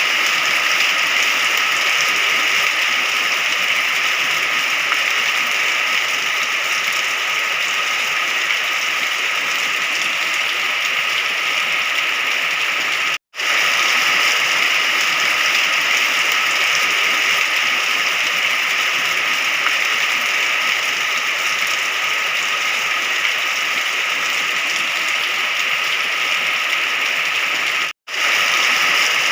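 Steady, dense rain falling, an even hiss, cutting out for a split second twice, about 13 and 28 seconds in, before resuming unchanged.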